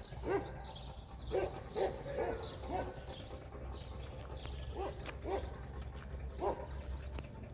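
A dog barking repeatedly in short, uneven groups of calls, over a steady low hum.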